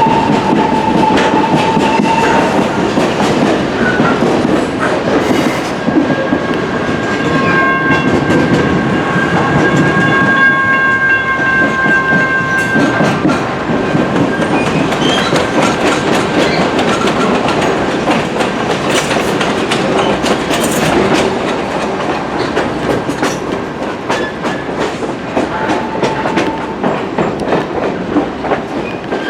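Passenger train running on the rails with a steady rumble and clickety-clack of wheels. About seven seconds in, a horn of several notes sounds for about six seconds. A single high squeal is heard briefly at the start and again near the end.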